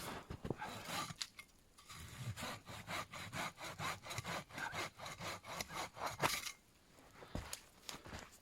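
Hand saw cutting through wood in a quick, regular back-and-forth, about three strokes a second, which stops a little over two-thirds of the way through.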